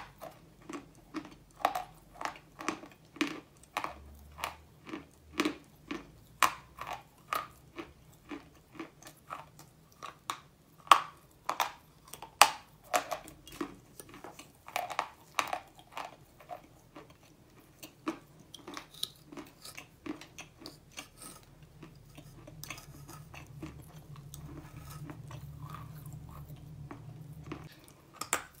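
A person chewing chalk close to the microphone: short, crisp crunches at about two a second. The chewing thins out after about twenty seconds, and a fresh bite comes near the end.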